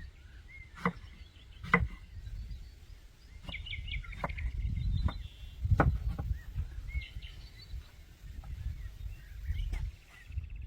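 Small birds chirping on and off over a low rumble, with half a dozen sharp knocks scattered through, the loudest about two and six seconds in.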